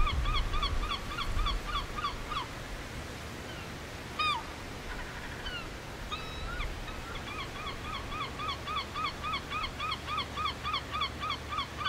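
A bird calling in rapid runs of short, repeated calls, about four a second, each call dipping in pitch at its end. The calls pause for a few seconds in the middle with only a few scattered calls, then resume. A low rumble sits under the first couple of seconds.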